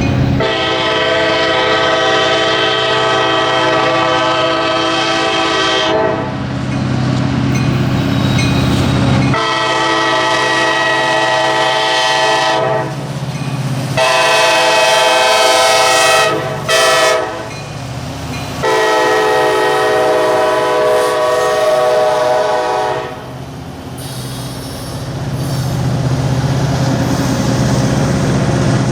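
Locomotive air horn blowing a chord in repeated blasts: one long, then long, long, short, long, the pattern of the grade-crossing signal, with the low steady rumble of the passing train between blasts.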